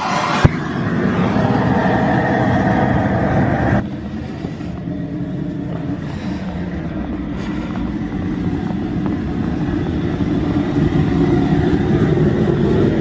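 Outdoor propane burner running with a steady roar under the sap pan. A sharp click comes about half a second in, and at about four seconds the sound drops from a brighter hissing rush to a lower, steady rumble.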